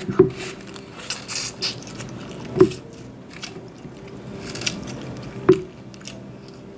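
Close-up eating sounds: wet chewing, with three sharp clicks about two to three seconds apart.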